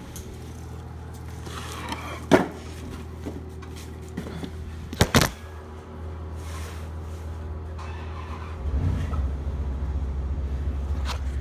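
Truck engine running steadily at idle, with two sharp thumps about two and five seconds in; the engine gets louder about two-thirds of the way through.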